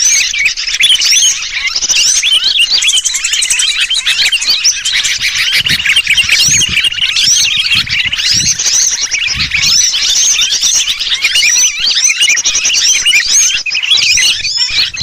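Bird-lure recording: a dense, continuous chorus of small birds chattering, mixed with the distress calls of a trapped sooty-headed bulbul (kutilang), with many overlapping chirps and whistles.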